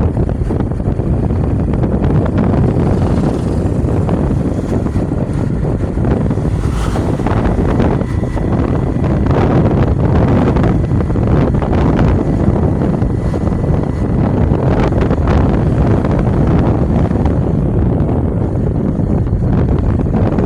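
Wind buffeting the microphone of a moving motorcycle, over the rumble of the motorcycle and the road.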